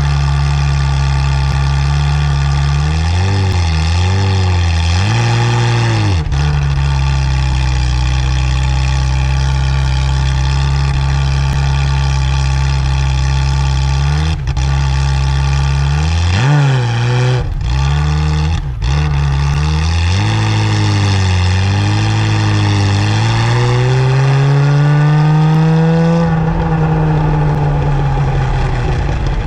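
Ferrari F355 F1's V8 engine idling steadily, blipped in short quick revs several times. Then it is held at a slowly rising, higher rev for a few seconds before falling back to idle.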